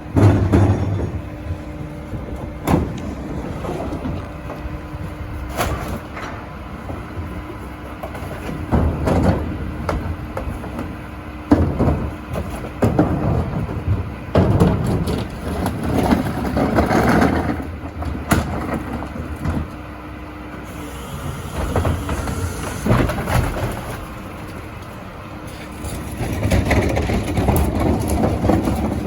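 Heil Dura-Pack rear-loader recycling truck at work: its engine runs with a steady hum while recyclables clatter and crash into the hopper in several loud spells, among sharp bangs.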